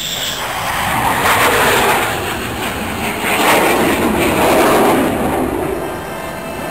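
Jet fighters passing over with a loud rushing engine noise. It swells twice, about a second and a half in and again around four seconds in, then eases off.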